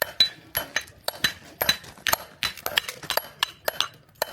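Steel splitting wedges being struck over and over while splitting firewood: sharp, ringing metallic clinks about four to five a second in an uneven rhythm, as if more than one person is striking.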